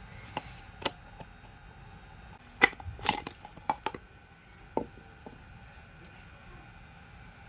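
Small metal parts clinking and tapping as they are handled on a workbench: scattered sharp clicks, with a short burst of clatter, the loudest, about two and a half to three seconds in.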